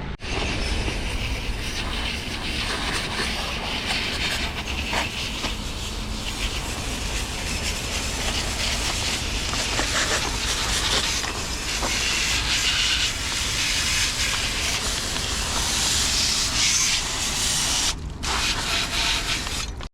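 Bicycle riding along a crushed-limestone trail: a steady crunch and hiss of the tyres on the stone, with wind rumbling on the microphone.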